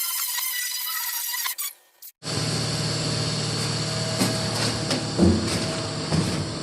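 Background music for about a second and a half, then an abrupt cut. After a short gap, steady workshop machine noise with a low hum starts, broken by several sharp knocks.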